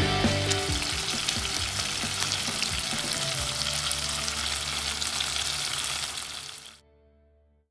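Ground-pork hamburger patties sizzling in oil in a frying pan: a steady crackle with fine spitting pops. It cuts off suddenly about a second before the end.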